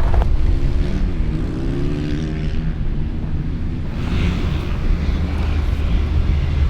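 Motor vehicle engine running with a steady low rumble, its pitch dipping and then rising again between about one and three seconds in.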